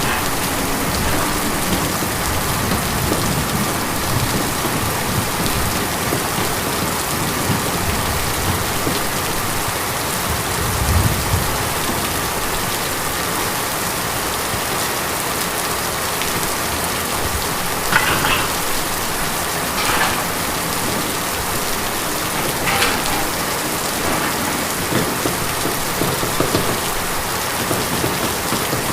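Steady rain drumming on a tin roof, a dense even hiss. A few louder single drops or drips stand out about two-thirds of the way through.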